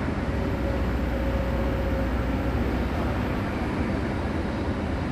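Heavy excavator diesel engine running steadily, a low rumble without breaks.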